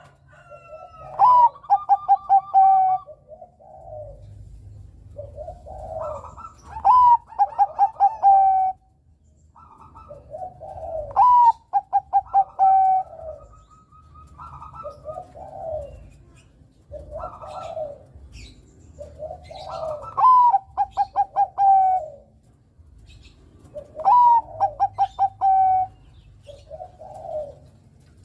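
Bangkok-type zebra dove (perkutut) singing its cooing song. The phrase repeats every few seconds: a rising note, a quick run of clipped notes, then a long coo. Softer coos fall between the loud phrases.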